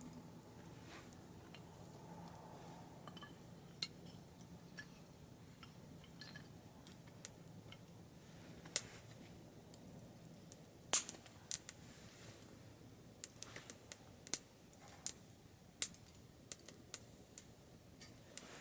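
Wood fire crackling in a small wood-burning stove: irregular sharp pops and snaps, sparse at first and coming more often in the second half.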